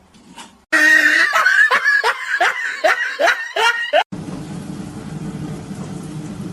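A person laughing in a quick run of about eight short syllables, which cuts off suddenly to a steady low hum.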